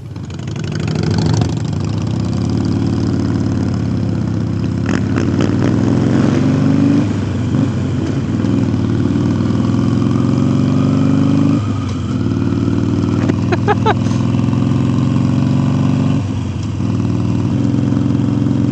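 Harley-Davidson Iron 883 Sportster's air-cooled V-twin under way, pulling through the gears. The pitch rises and then breaks and drops at each of several upshifts.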